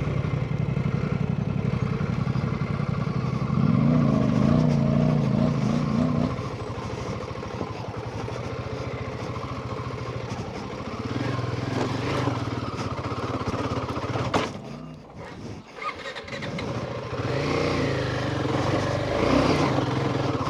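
Royal Enfield Himalayan 450's single-cylinder engine running and revving: the throttle opens up about four seconds in, and the engine drops away briefly about two-thirds through before picking up again.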